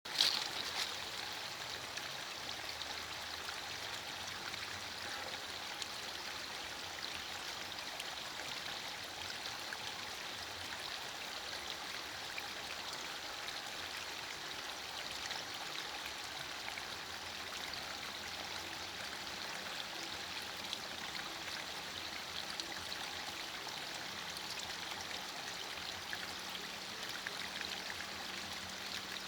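Light drizzling rain falling steadily: an even hiss flecked with many tiny raindrop ticks.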